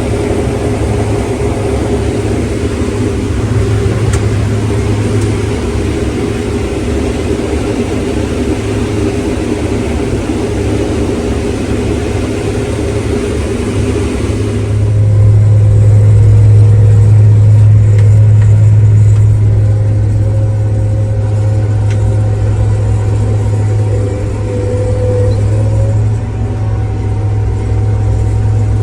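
Diesel engine of harvest farm machinery running steadily with a strong low hum. About halfway through, the higher hiss falls away and the low hum grows louder.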